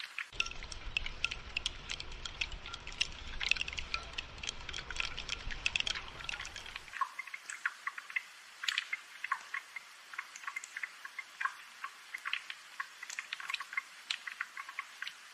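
Light rain with dense, irregular drops pattering and dripping close by. A low rumble runs underneath for roughly the first seven seconds, then stops.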